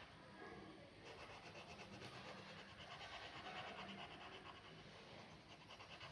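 Faint scratching of a pen on paper in quick, repeated short strokes.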